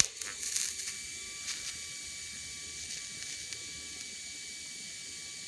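A welding tack finishing at the very start, a sharp crackle with a few fainter ticks over the next second. Then a steady hiss with a faint high steady tone.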